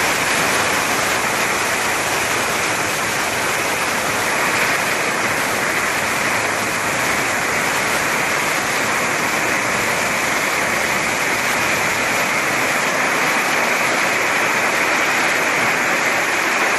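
A loud, steady rushing hiss with no speech and no distinct tones.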